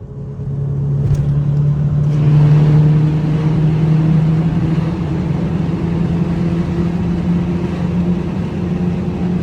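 Car engine running at a steady speed, a low hum that rises in over the first second and then holds.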